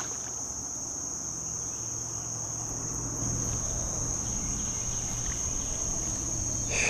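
A steady, unbroken chorus of insects singing, a constant high-pitched buzz, over a faint low hum.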